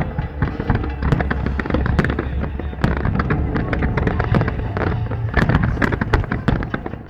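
Fireworks going off: a dense, irregular string of bangs and crackles, several a second, with no break.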